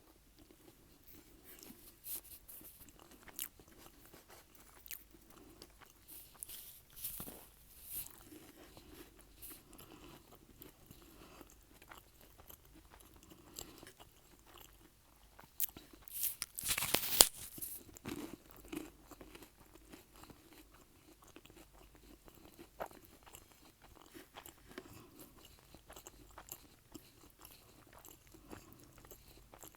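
Close-miked chewing and biting, wet mouth clicks mixed with crunching of over-toasted garlic bread, with one loud crunchy bite a little over halfway through.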